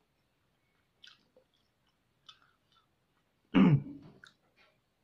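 Quiet chewing of crispy fried pork hock, with a few faint soft crunches and clicks, and about three and a half seconds in a short, loud sound from the throat.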